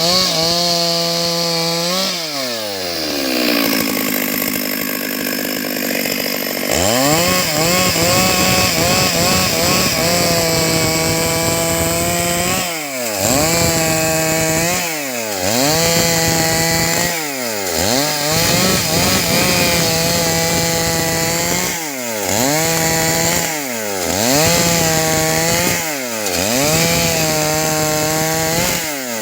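Stihl MS 382 two-stroke chainsaw running at high revs while cutting wood into boards. Its pitch drops sharply and climbs back again and again, about every two seconds. From about three to seven seconds in it runs lower and rougher.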